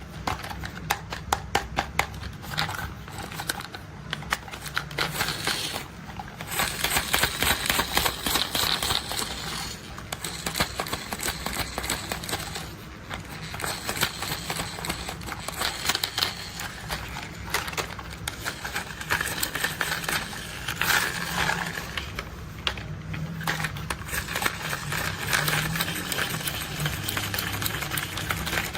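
Rapid, irregular tapping and clicking on toy construction vehicles, continuing throughout.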